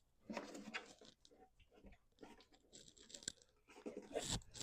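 Faint scattered clicks, knocks and scraping of a plastic coolant reservoir being worked loose and lifted out of a truck's engine bay.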